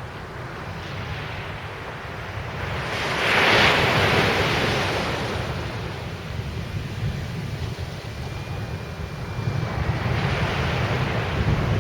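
Sea surf breaking on the beach, with a big wave rushing in and swelling loudest about three to four seconds in and another building near the end. Wind buffets the microphone with a low rumble throughout.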